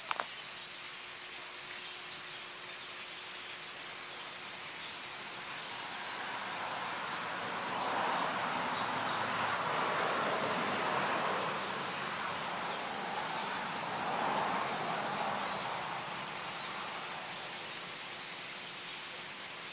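A large flock of birds in the trees chattering and calling all at once, a dense, continuous din of overlapping high chirps. It swells louder for several seconds in the middle.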